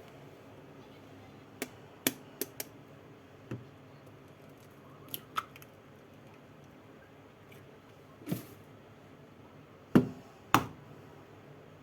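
A scattered series of short, sharp clicks and taps of small objects being handled, about ten in all, over a faint steady hum; the two loudest knocks come close together near the end.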